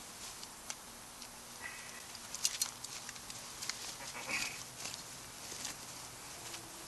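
Wood campfire crackling, with irregular sharp pops, and a couple of brief rustling or scraping sounds from the cooking.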